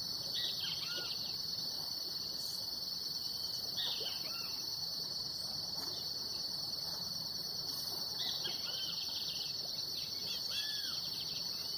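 A steady high-pitched chorus of insects, with scattered short bird calls now and then.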